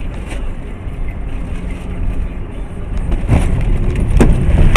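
A car's engine and road noise, a steady low rumble that grows louder toward the end, with two sharp knocks late on.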